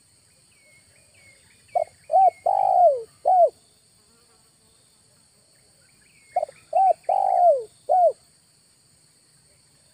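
Spotted dove cooing: two phrases of four coo notes, each note falling in pitch, about four seconds apart. A steady high insect drone runs underneath, with a few faint high bird chirps before the first phrase.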